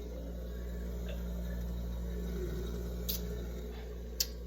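Mini fridge humming steadily and low, with a few faint clicks about one, three and four seconds in.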